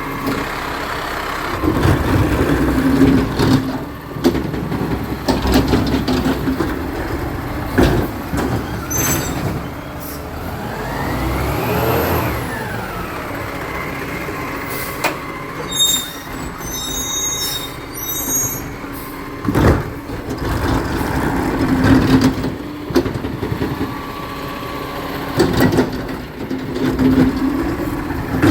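Recycling truck's diesel engine running steadily, with repeated knocks and clatter of a bin being handled and emptied. About halfway in, a whine rises and falls in pitch, followed by a few high squeaks.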